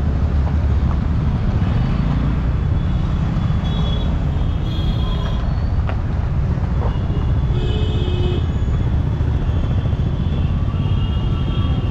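Busy road traffic: a steady, dense low rumble of vehicle engines, with a couple of short high-pitched tones partway through.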